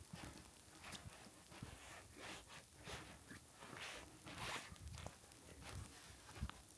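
Quiet footsteps at a steady walking pace, about one and a half steps a second, on wet ground, over a faint hiss of light rain.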